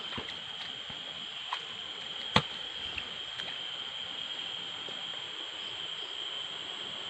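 Small stream's water trickling, under a steady high-pitched tone. A sharp knock comes about two and a half seconds in, with a few fainter ticks around it.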